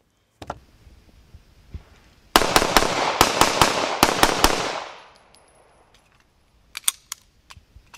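A rapid string of about ten pistol shots in two and a half seconds, each crack trailing into echo, fading out about two seconds later; this is the Arsenal Firearms Strike One being fired. A few faint clicks come before and after.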